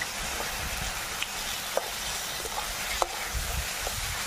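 Fish heads and spice masala frying in oil in a metal kadai, a steady sizzle, while a metal spatula stirs them, scraping and knocking against the pan a few times.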